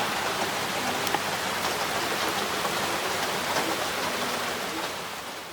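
Heavy rain with water running and dripping in a drainpipe: a steady wash of rain with scattered sharp drops, fading out near the end.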